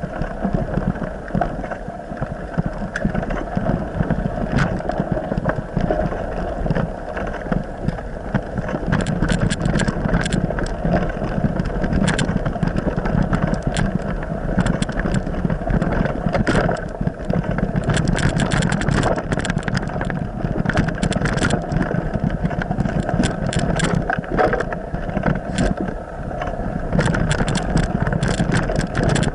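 An engine running steadily while travelling, with many scattered sharp clicks and rattles from about nine seconds in.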